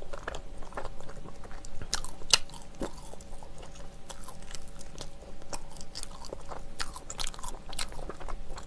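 Close-miked mouth sounds of a person biting and chewing a soft, chewy bread filled with glutinous rice cake (chapssal-tteok) and red beans: many short, sticky, wet clicks and smacks. Near the end the bread is pulled apart by hand.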